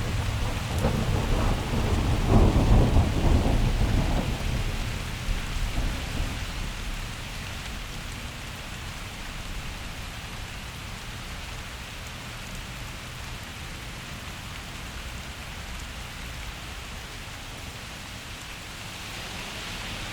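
A thunderclap rolls and rumbles deep and low for the first several seconds, peaking about two to three seconds in and fading away by about seven seconds. Steady rain falls throughout.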